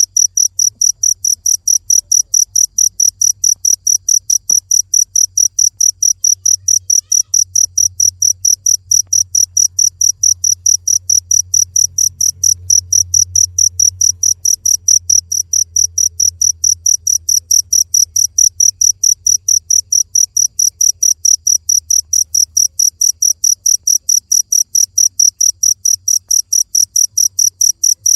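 Cricket chirping in a steady, even rhythm of high-pitched chirps, about three a second.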